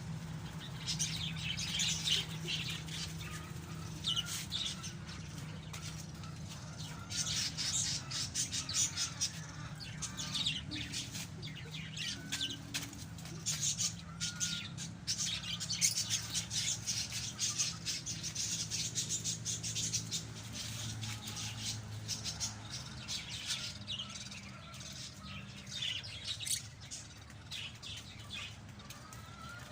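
A group of pet lovebirds chattering, a dense run of rapid, high chirps that goes on without a break, over a low steady hum.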